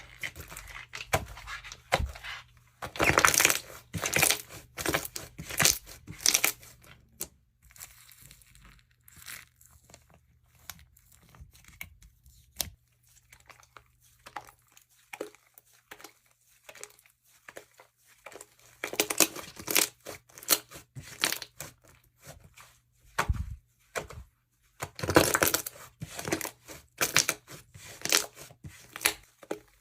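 Jewelry slime being squeezed and worked by hand, giving quick crackling, crinkly clicks in dense bursts, with a sparser, quieter stretch in the middle.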